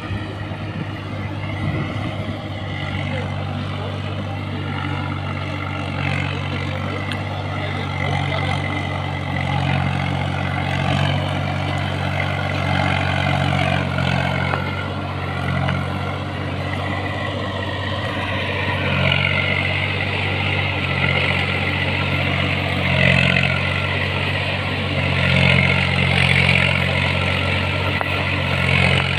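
Swaraj 855 FE tractor's three-cylinder diesel engine running steadily while pulling a fully loaded trolley. It grows somewhat louder in the second half.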